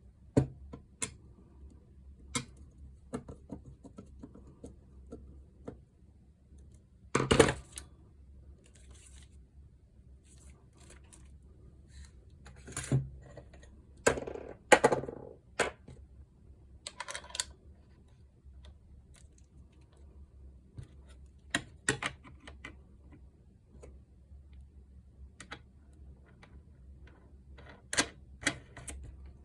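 Irregular clicks, taps and clatters of small parts and hand tools being handled during repair work, over a faint steady low hum.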